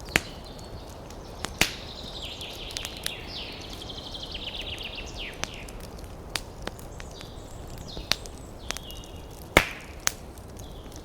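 Wood fire crackling: sharp pops every second or so, the loudest about two-thirds of the way in, over a low steady rush. High trilling chirps come and go between the pops.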